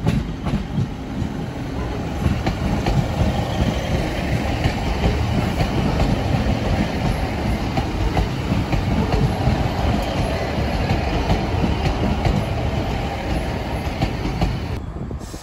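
Northern Class 150 Sprinter diesel multiple unit passing close by, its diesel engines and wheels making a steady rumble with faint clicks from the wheels over the track. The sound builds over the first two seconds and eases near the end as the last car goes by.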